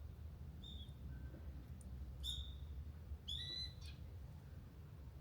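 A bird calling: a few short, clear high notes about a second apart, the longest near the middle sliding down at the end, over a steady low rumble.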